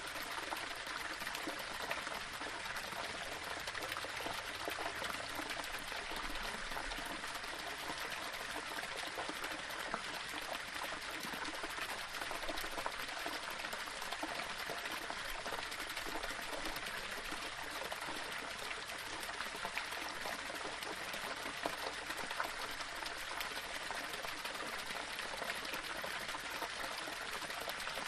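Small waterfall pouring over rocks: a steady, even splashing rush of water.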